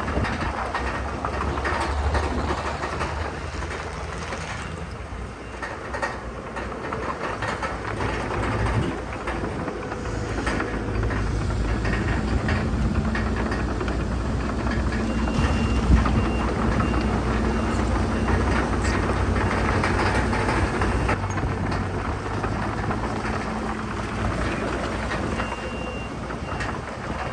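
Bulldozer's diesel engine running steadily, with its steel crawler tracks clanking and clattering as it moves.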